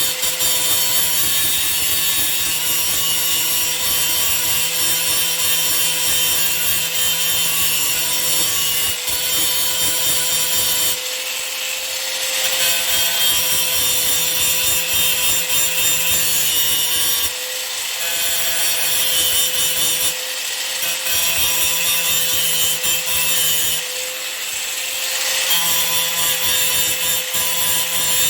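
Drill Master 4.5-inch, 120-volt angle grinder running at speed with a steady whine, its wheel grinding against a workpiece with a harsh hiss. The grinding noise eases briefly about 11, 17, 20 and 24 seconds in.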